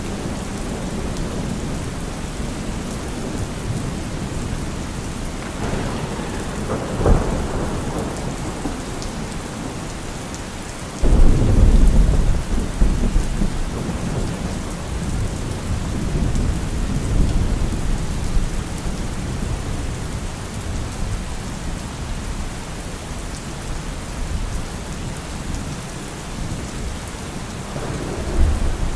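Steady heavy rain with rolling thunder: a rumble swells with a crack about seven seconds in, a sudden loud clap of thunder hits a few seconds later and rolls on for several seconds, and another rumble begins near the end.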